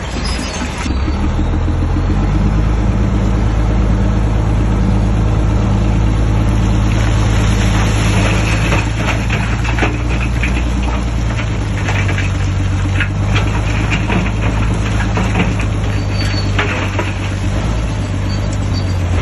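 Shantui DH17C3 bulldozer's diesel engine working under load, with a steady low drone that picks up about a second or two in. Metal clanks come and go through the middle.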